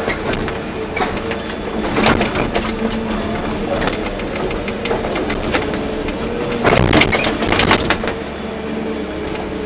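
Volvo EC240B excavator's diesel engine running steadily while working, with scattered clanks and knocks. A louder, rougher stretch comes about seven seconds in.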